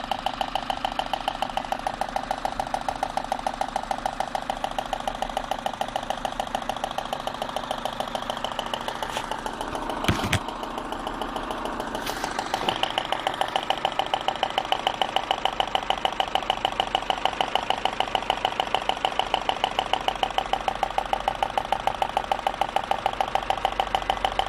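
Citroën C4 petrol engine idling with an even, rhythmic knocking, about four beats a second; the knock is a misfire caused by a defective spark plug. A single sharp click about ten seconds in, with the knocking fainter for a couple of seconds around it.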